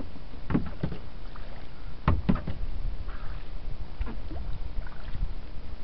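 Kayak paddle strokes, dipping and splashing in the water in a few irregular strokes, the strongest about two seconds in, over a steady low rumble.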